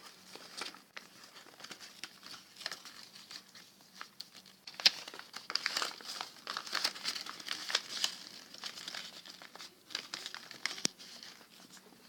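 Sheet of paper being folded and creased by hand, with irregular rustles and crinkles, busiest about halfway through.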